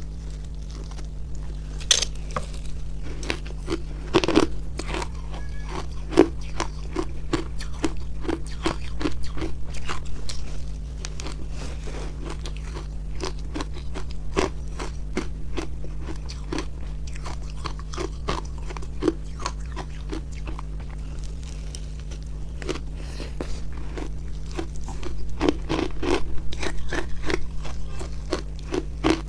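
Close-up crunching as refrozen milk-and-matcha ice is bitten and chewed, many crisp cracks in quick, uneven succession over a steady low hum.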